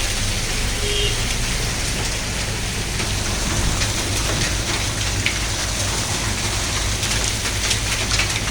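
Heavy rain falling steadily: a dense, even hiss of rain on surfaces with scattered sharp drop hits.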